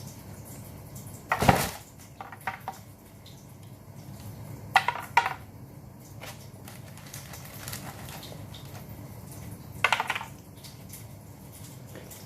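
Cutlery clinking and knocking against a plate during a meal: a sharp knock about a second and a half in, two quick clinks about five seconds in, and another clatter near the end.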